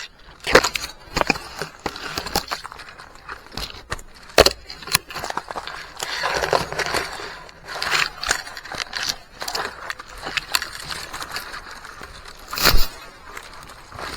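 Irregular sharp cracks and snaps with rustling of fronds and fibre as a Chusan palm is cut and taken down, with a loud crack near the end.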